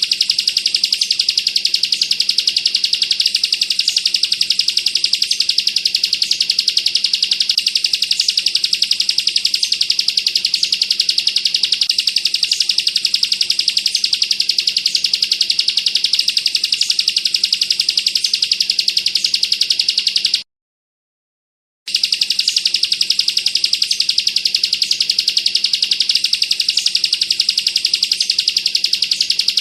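Bar-winged prinia (ciblek kristal) singing a long, very rapid machine-gun-like chattering trill, the 'bren' song, high-pitched and unbroken except for a sudden gap of about a second and a half about two-thirds of the way through.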